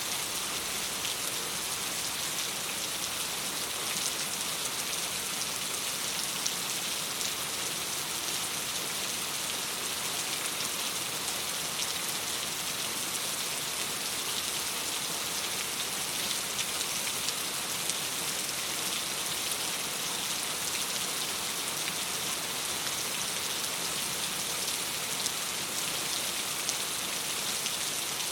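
Steady rain on a window, with the patter of many small drops.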